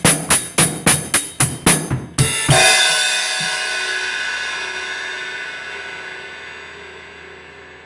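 Drum kit: even hits about four a second, ending about two and a half seconds in on a cymbal crash that is left to ring out, slowly fading.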